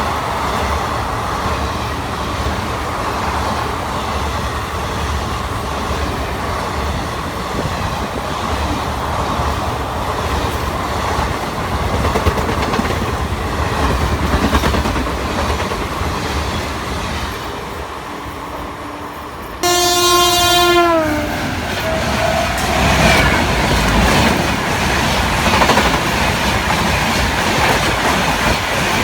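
Express train running past at speed on electrified track, wheels clattering over the rail joints. About two-thirds of the way through, an electric locomotive's horn sounds suddenly and loudly for about a second and a half, its pitch falling as it passes, and the rushing clatter grows louder after it.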